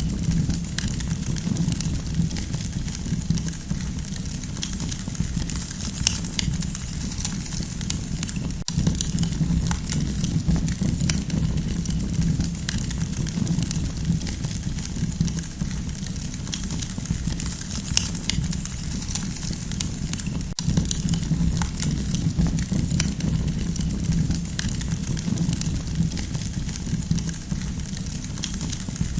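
Campfire burning: a steady low rush of flame with many small crackles and pops scattered throughout.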